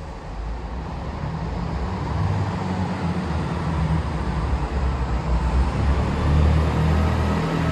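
Northern class 158 diesel multiple unit pulling away, its diesel engine running with a low, steady note that grows gradually louder.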